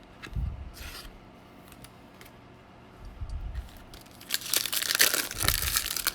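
A trading card pack's foil wrapper being torn open and crinkled, loudest in a long rip about four seconds in, with a few dull thuds of handling on the table.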